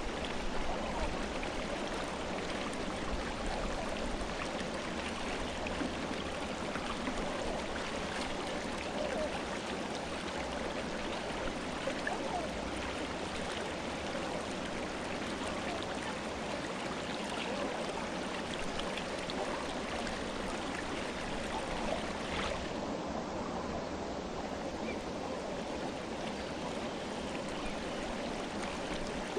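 Mountain river flowing over rocks: a steady rushing with gurgling. Its brighter hiss dulls a little about three-quarters of the way through.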